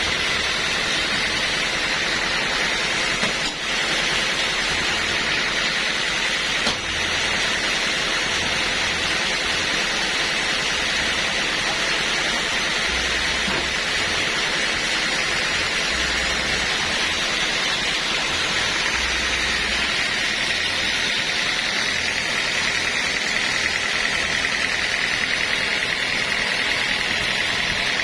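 Sawmill machinery running steadily, a constant noise with a high-pitched whine held throughout.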